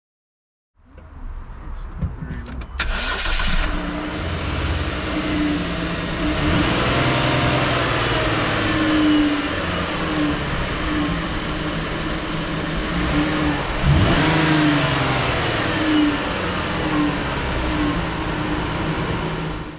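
2011 Jeep Grand Cherokee's 3.6-litre V6 starting about three seconds in, then running, its pitch rising and falling as it revs.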